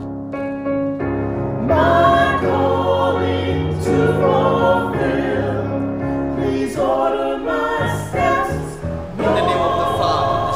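A choir singing, with steady held low notes beneath the voices; the singing swells about two seconds in.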